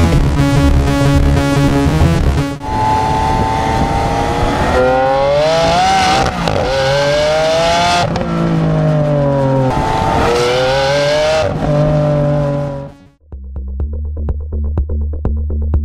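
A performance car's engine at full throttle accelerating through the gears, the pitch climbing and dropping back at each of several upshifts, for about ten seconds before cutting off suddenly. Music plays before it, and electronic music with a steady beat after.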